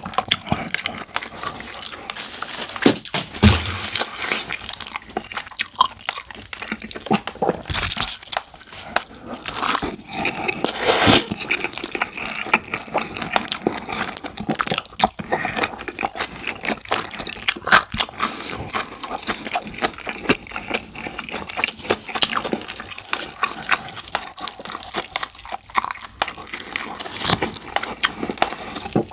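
Close-miked wet eating sounds of saucy black bean and curry rice: irregular moist smacks and clicks of chewing and utensils.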